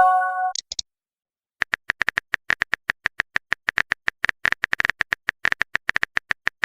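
A short electronic message chime of a few steady tones at the start, then, after a brief pause, a rapid run of phone-keyboard typing clicks, several a second.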